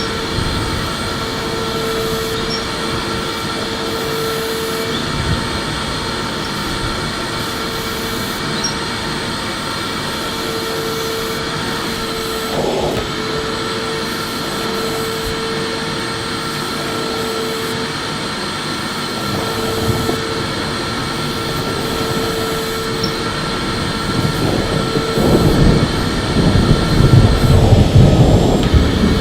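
Electric vacuum cleaner running steadily: a loud motor noise with a whine held over it. In the last few seconds a louder, uneven low rumbling comes in.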